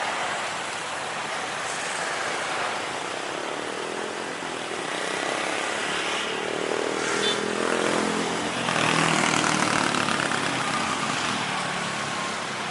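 Jet airliner flying past on landing approach: a steady rushing engine noise that swells to its loudest about nine seconds in, with the engine tone falling in pitch as it passes.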